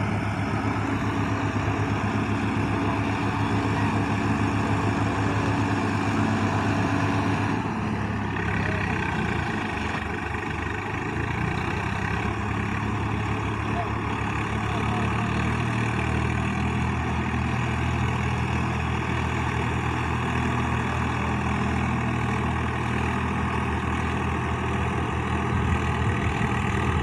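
Tractor diesel engine running steadily, its note dropping and changing about eight seconds in, then settling again.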